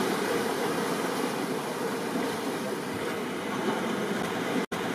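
Steady rushing noise of rain and ocean surf, which cuts out for a split second near the end.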